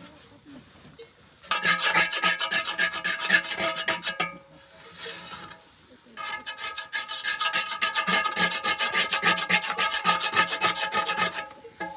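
Fast, rhythmic rubbing or scraping strokes, with a faint ringing tone running through them. They come in two runs of a few seconds each, with a short pause between.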